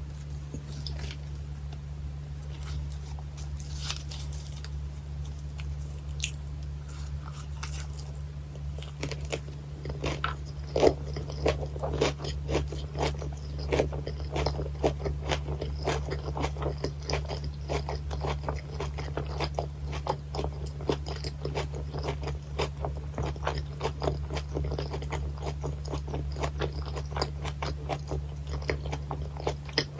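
Close-miked crunchy chewing of raw gizzard shad sashimi, the bone-in slices crunching between the teeth. Sparse at first, the chewing turns into a fast, dense crunching from about ten seconds in, over a steady low hum.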